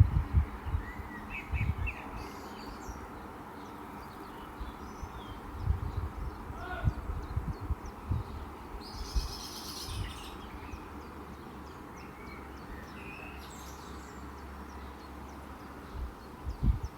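Small birds chirping and calling at intervals, with a brighter burst of song about nine seconds in, over irregular low rumbles.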